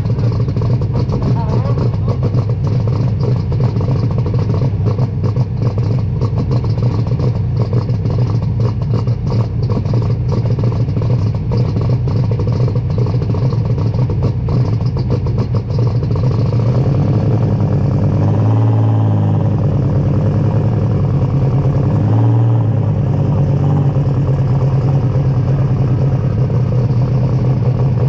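A superstock pulling tractor's diesel engine running loud and steady, with a fast rattling edge. In the second half the rattle smooths out and the revs dip and rise again twice.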